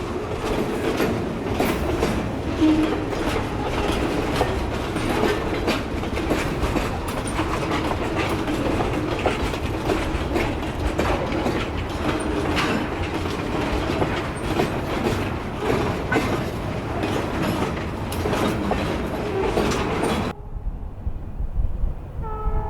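Escanaba & Lake Superior freight train rolling past, its wheels clicking rapidly and steadily over rail joints with a dense rumble of cars. About twenty seconds in, the sound cuts off abruptly.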